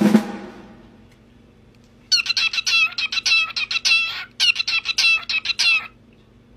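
Canary singing two quick phrases of rapidly repeated chirping notes, one about two seconds long and one about a second and a half, with a brief pause between them. A loud ringing sound fades out in the first second.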